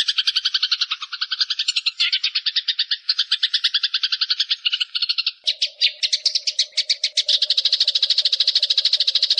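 Eurasian tree sparrows chattering in a fast, unbroken run of chirps, about ten a second, the agitated calls of sparrows fighting. A faint steady hum joins about halfway through.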